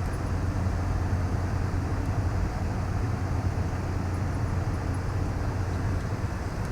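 Steady low rumble of a vehicle driving, engine and tyre noise heard from inside the cab.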